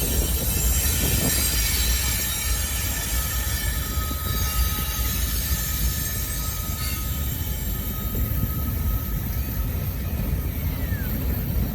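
Freight train rolling past: a steady low rumble with several high, steady squealing tones from the wheels on the rails.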